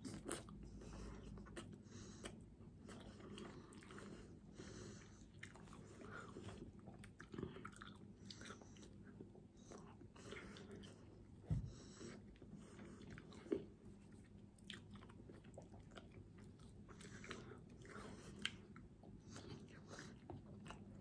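Quiet, wet chewing and lip smacks of a person eating soft ripe papaya, with spoon scoops into the fruit. There are irregular small clicks throughout and two sharper clicks near the middle.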